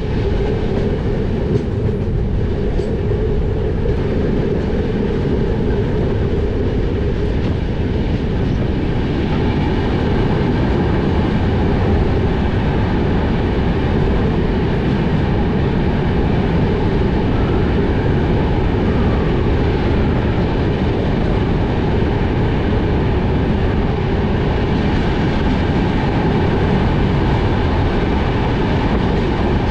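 Vikramshila Express passenger train running at speed, heard at an open coach door: a steady rumble of wheels on rails. It grows louder and fuller from about ten seconds in as the train runs into a tunnel.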